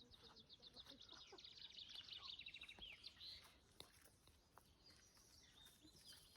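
Songbird singing a fast trill of high, evenly repeated notes, about ten a second, for nearly three seconds, falling slightly in pitch and ending on a falling note; a few fainter calls follow.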